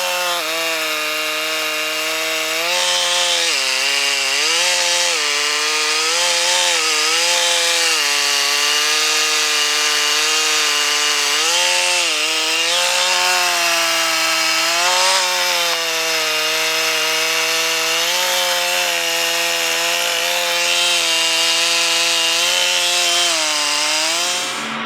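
Gas chainsaw running at high revs while cutting wood, its pitch dipping and recovering again and again as the chain bogs under load.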